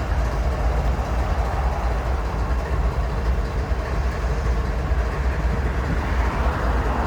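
CSX intermodal freight train rolling past, a steady rumble of wheels on the rails with no letup.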